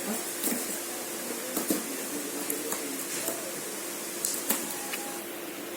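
A cardboard toy box and its packaging being handled and opened: scattered light taps, clicks and rustles over a faint steady hum.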